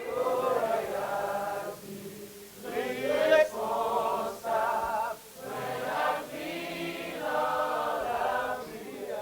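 A church congregation singing a slow hymn together, held sung phrases with short breaths between them.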